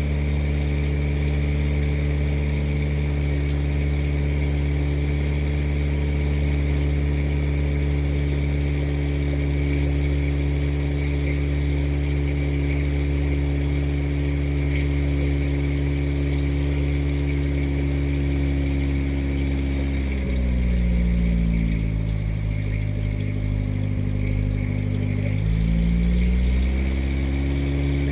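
Motorboat engine running steadily. About twenty seconds in it slows to a lower pitch for a few seconds, then speeds back up to its earlier pitch near the end.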